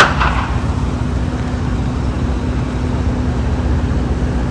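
Steady low rumble of a vehicle engine running, with a constant low hum under it; a short higher-pitched sound right at the start.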